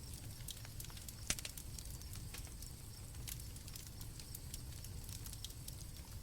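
Campfire crackling with irregular sharp pops, the loudest about a second in, over a low steady rumble. Crickets chirp faintly and steadily in the background.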